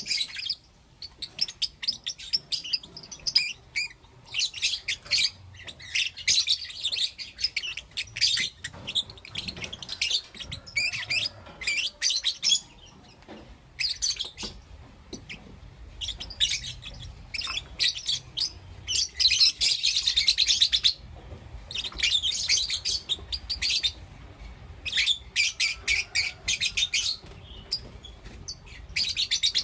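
Pet lovebirds chirping in rapid, high-pitched bouts of chatter, with short pauses between the bouts.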